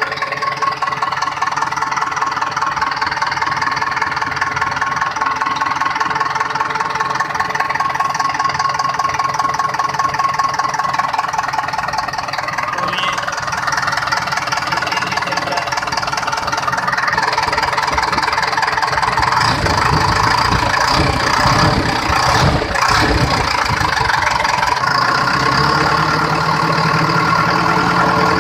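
JCB machine's four-cylinder 5000 cc diesel engine running with a steady clatter. About two-thirds of the way through it grows louder and deeper, and a steady low hum joins it near the end.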